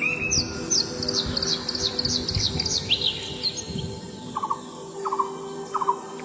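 Songbirds calling: a run of quick, high chirps for the first few seconds, then three short, lower, falling notes about a second apart.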